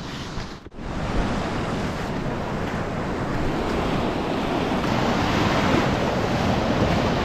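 Sea waves washing in the shallows with wind buffeting the microphone: a steady rushing noise that starts after a brief gap under a second in and swells slightly.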